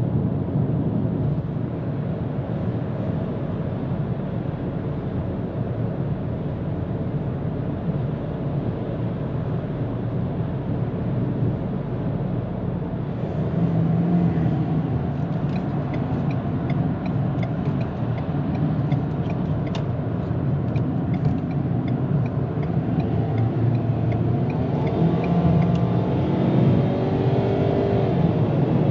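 2022 Ford Maverick pickup driving at highway speed: a steady rumble of road and wind noise, with scattered light ticks partway through and an engine tone rising briefly near the end.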